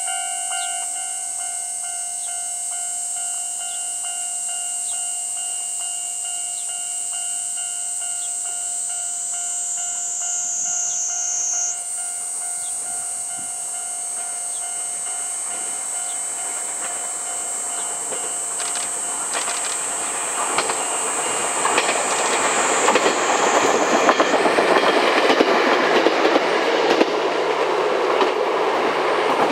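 Chichibu Railway 7800 series electric train approaching along the line, its wheels clacking over the rail joints as it gets steadily louder through the second half and is loudest near the end. Cicadas shrill high-pitched throughout, and a steady tone sounds in the first half before fading out.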